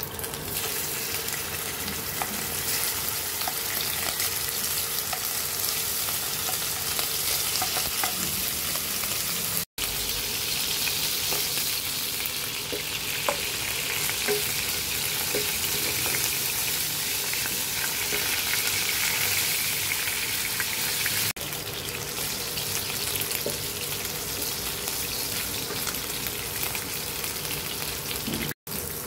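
Pieces of minced pork frying in shallow oil in a nonstick pan: a steady sizzle, with a few light clicks.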